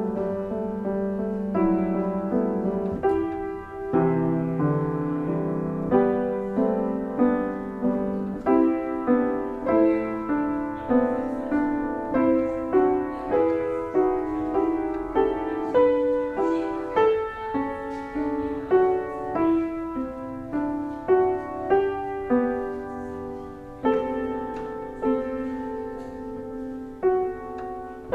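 Solo piano playing a slow, hymn-like piece, with chords and melody notes struck one after another and fading between strikes.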